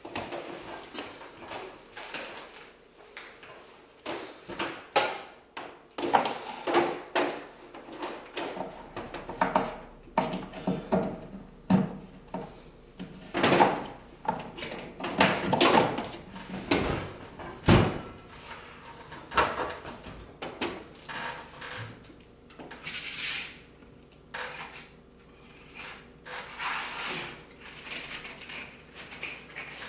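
Irregular knocks, clunks and scrapes of hands-on installation work, with hard objects being handled, set down and slid. There are several louder bangs about halfway through.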